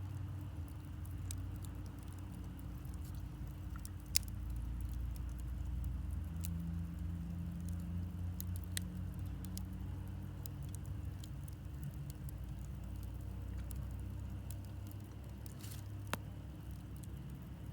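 Wood campfire burning: a steady low rumble with scattered small crackles, and two sharper pops, one about four seconds in and one near the end.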